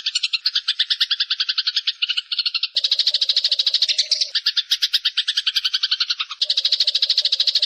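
Eurasian tree sparrow giving a long, unbroken rapid chatter of about ten notes a second, its tone shifting abruptly a couple of times.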